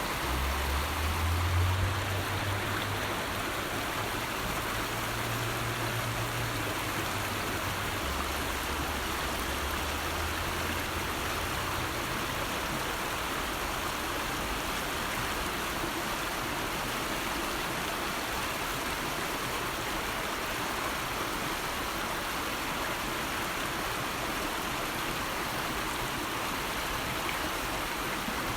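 River water flowing: a steady rush of running water. A low hum lies under it for about the first twelve seconds, loudest about a second and a half in.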